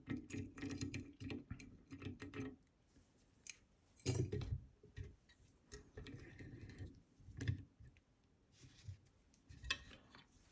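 Small metallic clicks and light clatter from handling a DOM Diamant disk detainer lock and its picking tools: a quick run of clicks in the first two and a half seconds, then scattered clicks and knocks, the loudest about four seconds in.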